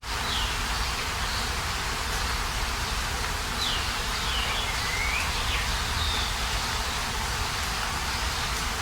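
Outdoor nature ambience: a steady hiss with a low rumble beneath it, and small birds calling over it in short, sweeping whistles, several of them in the first six seconds.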